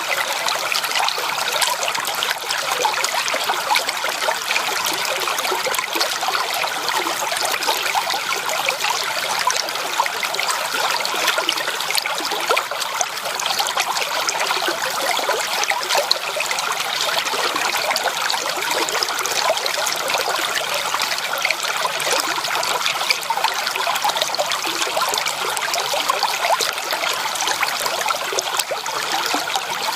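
Water of a forest stream flowing steadily, a continuous even splashing and rushing.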